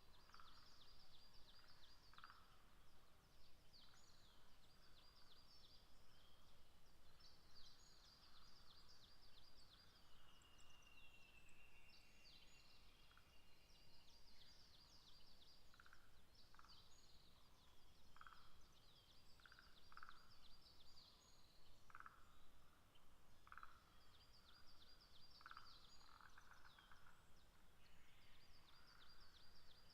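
Faint evening ambience of distant wild animal calls: short, rapid high trills repeating every second or two, with brief lower chirps scattered between them.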